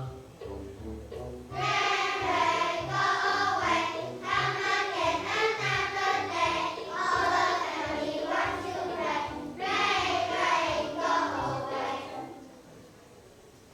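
A class of young children singing an English song together in unison over a backing accompaniment. The singing comes in about one and a half seconds in and stops near the end, leaving only quiet accompaniment.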